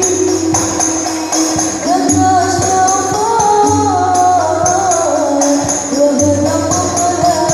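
Islamic devotional (sholawat) music: a winding melody over a steady beat of hand drums and jingling percussion.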